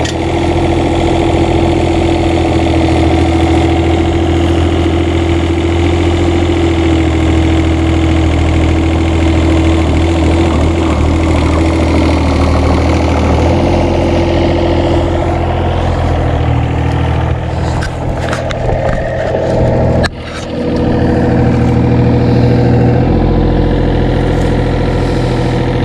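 Engine of a heavy construction machine running steadily while it lifts and maneuvers a load, its note shifting about halfway through. A few knocks of the load or machinery come around three quarters of the way in.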